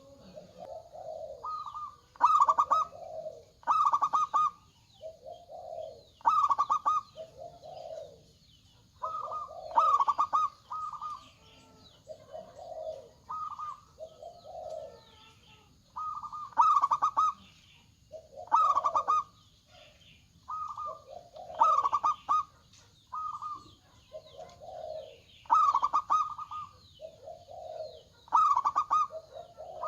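Zebra dove (perkutut) cooing in repeated phrases, every two to three seconds: short trilled high notes alternating with lower, rolling coos.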